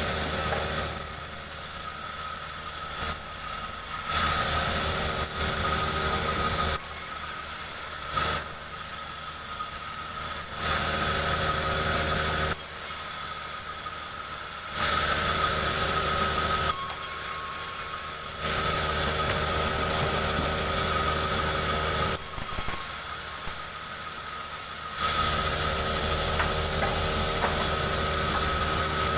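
Chainsaw engine repeatedly speeding up for a few seconds at a time and then dropping back to a lower speed while ripping a jengkol log lengthwise.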